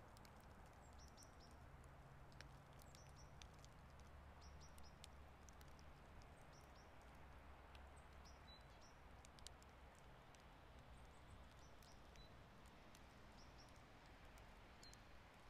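Faint outdoor ambience: small birds chirping with short high notes every second or two over a soft steady hiss and a low distant rumble, with scattered light ticks throughout.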